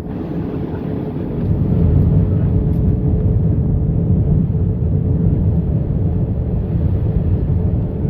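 Airbus A320 cabin noise: a loud, steady rumble of engines and airflow with a faint steady tone through it, growing louder about a second and a half in.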